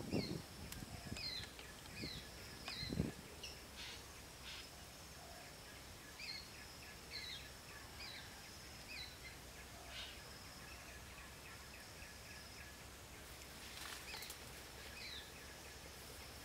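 A bird calling repeatedly in short, falling chirps over a steady high-pitched drone, with a single dull knock about three seconds in and rustling near the end.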